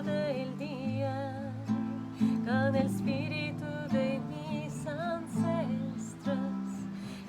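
A woman singing a slow medicine song in a wavering voice over a strummed acoustic guitar.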